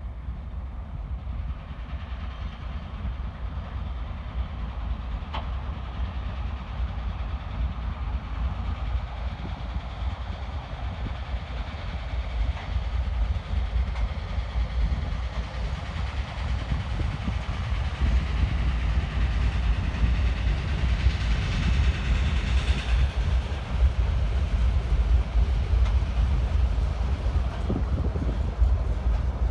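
Freight train of gondola cars hauled by a 2TE116UD diesel locomotive, rolling on the rails with a steady rumble of wheels. It grows louder about two-thirds of the way through.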